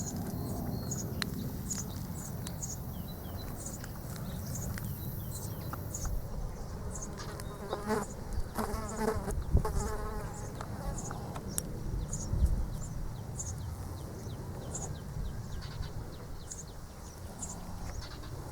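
An insect buzzing as it flies close past, loudest about halfway through, over a steady low outdoor rumble.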